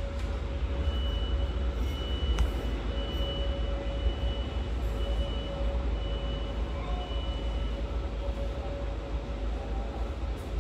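Electric freight train, an EH500 locomotive hauling container wagons, passing with a steady low rumble. A thin high whine comes and goes through the first part.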